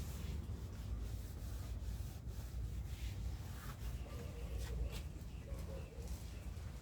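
Soft rubbing and handling noises with a few light clicks, over a steady low hum.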